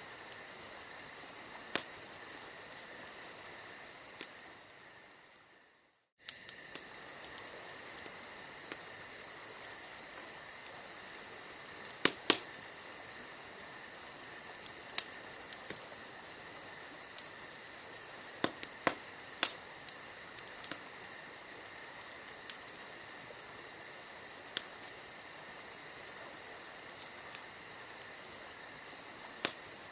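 Wood campfire crackling with scattered sharp pops over a steady high chirping of insects such as crickets. The sound fades away to silence about six seconds in, then comes straight back.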